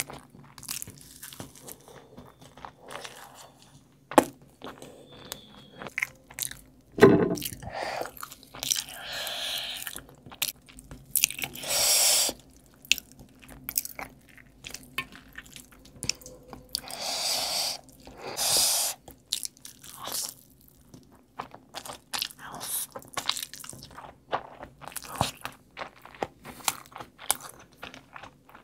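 Close-miked eating sounds: wet chewing, crunching and biting as food is torn by hand, dipped in gravy and eaten. Irregular small clicks and smacks run throughout, with a few louder, longer wet bursts about a third of the way in and again past the middle.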